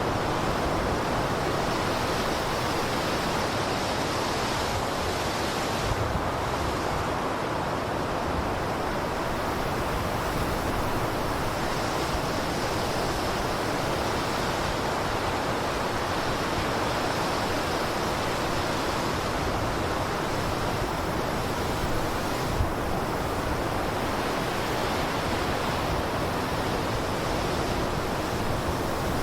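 Blizzard wind blowing steadily as an even rushing noise, with no gusts or breaks.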